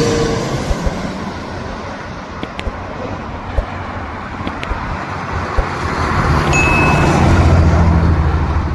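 Airbus A320 jet engines heard just after the airliner passes low overhead on landing: the roar falls away, then swells again as a deep rumble about seven seconds in before easing off. A few faint clicks sound through it.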